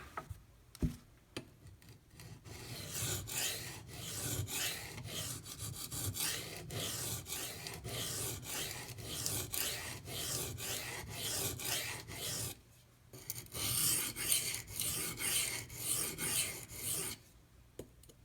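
D2 steel knife blade being stroked by hand across a coarse oil-lubricated sharpening stone, a rhythmic rasping scrape about once a second with a short pause two-thirds through. The edge is being ground to its apex, raising a burr.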